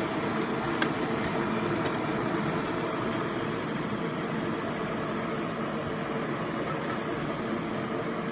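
Stainless-steel electric kettle heating water, giving a steady rushing rumble, with a few faint ticks about a second in.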